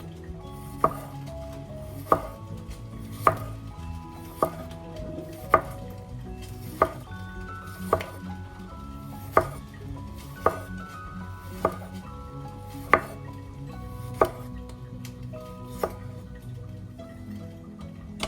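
A knife chopping food on a cutting board in slow, single strokes, about one knock a second, over soft background music.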